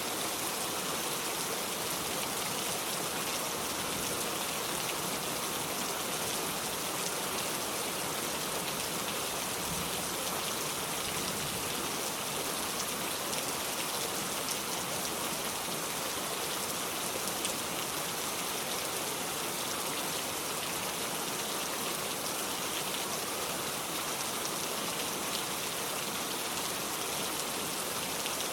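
Steady rain falling, an even hiss of drops on surfaces that doesn't let up.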